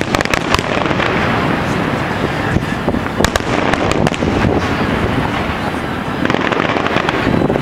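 Aerial fireworks going off without a break: a continuous rumble of bursts with clusters of sharp crackling pops near the start, in the middle and near the end.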